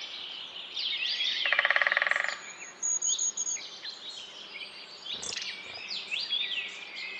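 A forest bird chorus, with many small birds chirping and whistling together. About one and a half seconds in, a louder call pulses rapidly for about a second.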